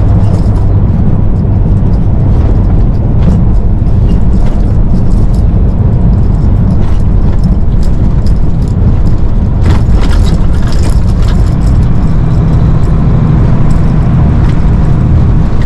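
Semi truck running down the road: a steady, loud low engine drone with road noise and light rattles.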